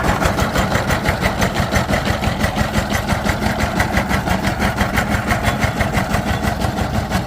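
Diesel engine running steadily with an even, rapid beat.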